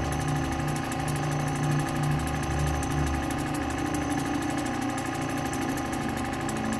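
Lapidary grinding machine's electric motor and wheel running with a steady hum.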